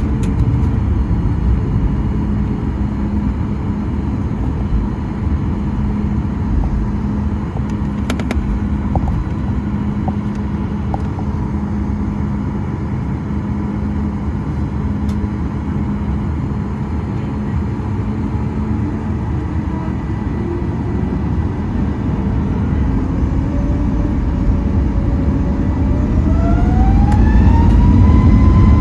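Steady rumble inside the cabin of a Boeing 737 MAX 8 as its CFM LEAP-1B engines run at idle. In the last few seconds a whine rises in pitch and the sound gets louder: the engines spooling up toward takeoff thrust.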